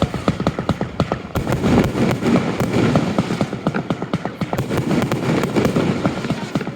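Fireworks display: a rapid barrage of sharp bangs, several a second, thickening into dense crackling about a second and a half in.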